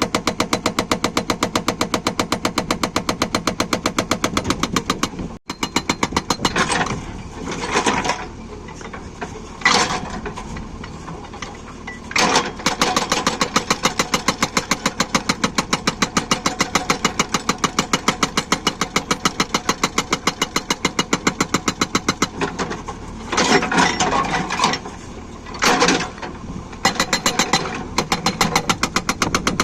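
Hydraulic breaker on a JCB 3DX backhoe loader, an Atlas Copco hammer, pounding in rapid, even blows over the running diesel engine. The hammering stops and restarts a few times.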